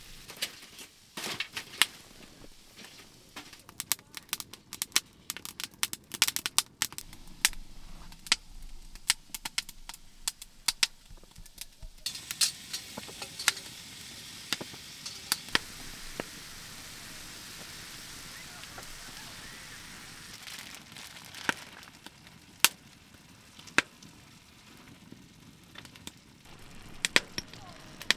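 Stir-fry vegetables sizzling in a stainless steel pan on a wood stove, with many sharp clicks and taps of the utensils against the pan. About twelve seconds in a louder, steady sizzle rises as more vegetables are tipped into the hot pan.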